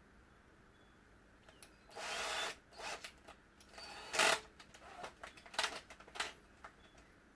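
Power drill run in several short bursts, drilling into a steering lock housing to widen holes and reach a retaining pin inside; the loudest burst comes about four seconds in.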